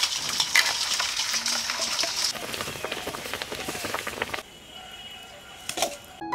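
Food sizzling as it fries in a pan, with rapid clicks of a spoon stirring it, for about four and a half seconds. Then it drops to a quieter hiss with a brief clatter near the end.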